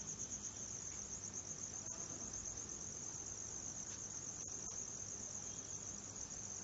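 An insect trilling steadily in the background with a rapid, high-pitched pulsing, over a faint low hum. A few faint clicks come about two seconds and four and a half seconds in.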